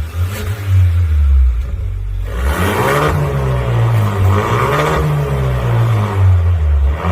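Kia Stinger 2.5 turbo four-cylinder engine heard through a custom dual exhaust with a JSR center muffler and variable-valve end mufflers. It idles steadily, then from about two and a half seconds in is revved several times in a row, the pitch rising and falling with each rev.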